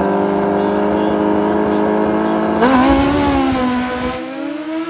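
Kawasaki ZX-14 and Suzuki Hayabusa drag bike engines held at a steady high rpm on the line, then launching about two and a half seconds in. The pitch jumps up with a burst of noise and then eases down as the bikes pull away.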